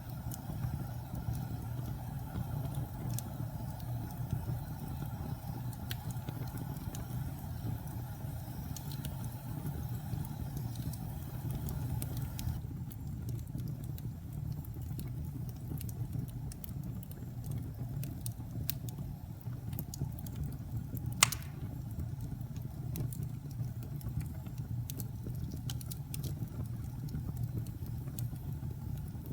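Wood fire burning in a fireplace: a steady low rumble of flames with scattered small crackles and one sharp pop about two-thirds of the way through.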